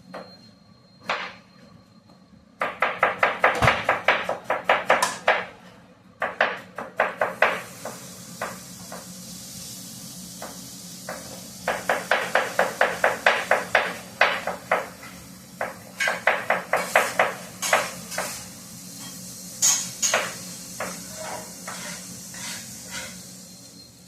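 Kitchen chopping: a cook striking a hard surface with a metal blade or spatula in quick runs of about seven strokes a second, with a steady hiss in between.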